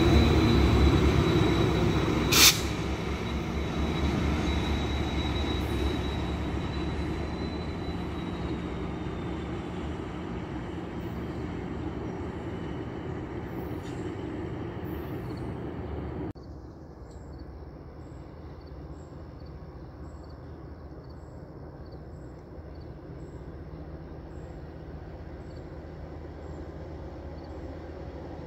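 A GO Transit MP40 diesel locomotive rumbles past at the tail of its train and fades away, with a thin steady wheel squeal for the first several seconds and a single sharp clank a couple of seconds in. About halfway through, the sound drops abruptly to a faint outdoor background with light regular ticking.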